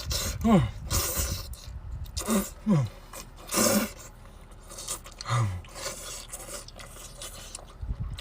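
A person eating, with close-up chewing and mouth noises in short bursts and a few brief falling-pitch grunts between them.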